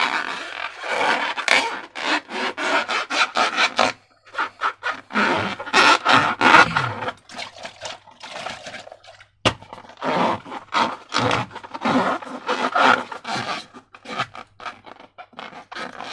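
Close-up scraping and rubbing of slime-making materials being handled, in quick repeated strokes, with brief pauses about four and nine seconds in and one sharp click soon after the second pause.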